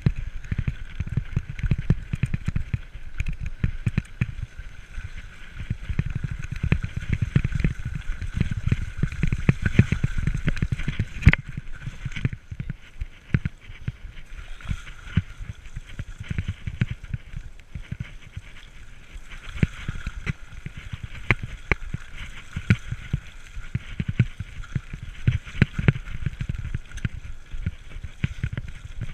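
Mountain bike ridden over a rough trail: continuous rattling and bumping of the bike, with tyre noise on the ground and one sharp knock about eleven seconds in.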